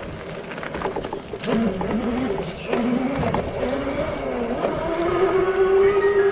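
Small dirt bike engine running, its pitch rising and falling as the throttle is worked, then held steadier and higher near the end.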